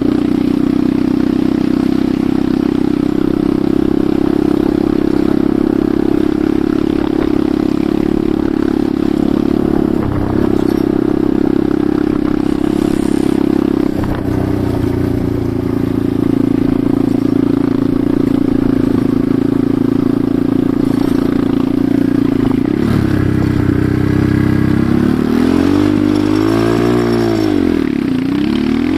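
Enduro motorcycle engine running steadily under way, with a couple of brief dips in the middle, then revving up and down several times over the last few seconds.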